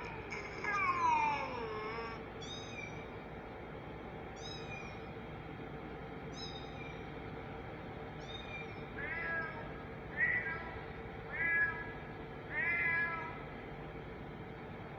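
Cat meowing repeatedly: a few falling meows in the first two seconds, short high-pitched calls about every two seconds, then four more meows between about nine and thirteen seconds.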